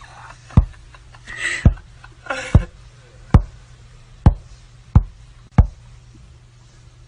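A run of seven sharp knocks, a little under a second apart, with two brief hissy sounds between the first few.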